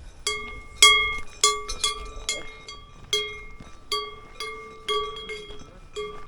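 Cowbell on a grazing cow clanging at an irregular pace, about a dozen strikes, each ringing briefly with a clear metallic pitch.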